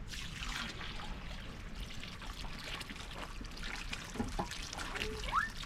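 Water running, a steady pouring trickle.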